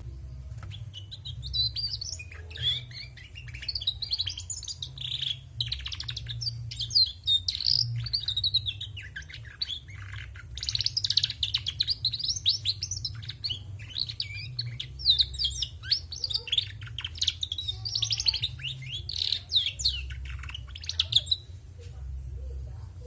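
Female canary singing a long, fast twittering song of chirps and trills, in phrases broken by short pauses, stopping shortly before the end. Such twittering song from a hen shows that a canary that twitters is not necessarily male.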